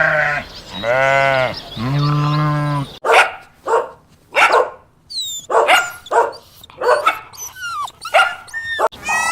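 A goat bleats in long, wavering cries, the last one ending about three seconds in. After a cut, a dog barks in a quick string of about a dozen sharp barks, roughly two a second.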